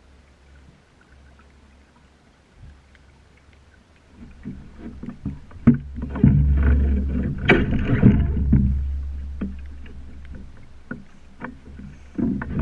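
Water rushing and slapping along a sailing dinghy's hull, with knocks from the boat and a low rumble, quiet at first, swelling about four seconds in, easing off, then building again near the end.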